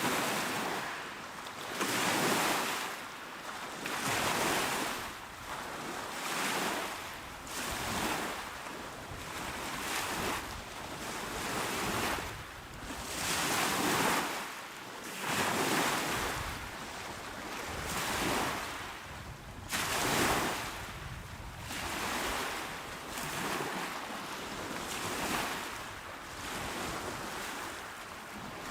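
Small calm waves washing onto a shore, a steady hiss of surf that swells and eases with each wave, about one wash every couple of seconds.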